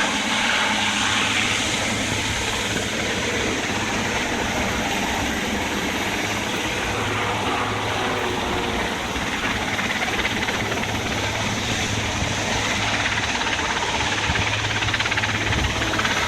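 Aircraft engine noise at an air show: a steady, loud rumble and hiss that holds level throughout without rising or fading.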